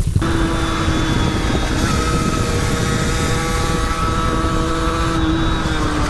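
Motorcycle engine running at steady high revs under way, its pitch nearly constant, over a steady rushing noise.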